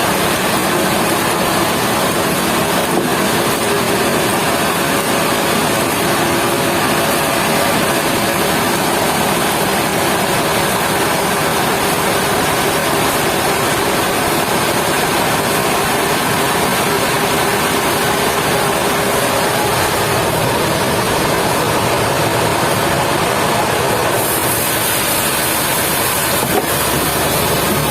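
Sawmill machinery running with a steady, even noise and a faint hum, with no pauses or separate impacts; the hiss brightens near the end.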